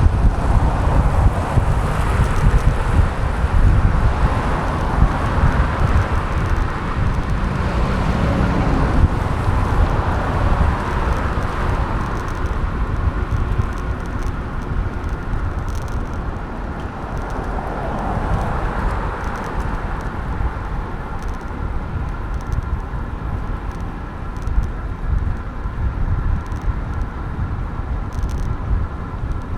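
Wind noise on the microphone of a bicycle's handlebar-mounted camera while riding, over city road traffic, with vehicles swelling past in the first several seconds and again a little past halfway.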